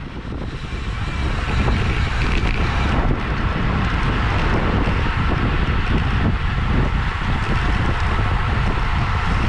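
Wind rushing over the camera microphone of a bicycle racing at speed, building over the first second or two and then holding steady.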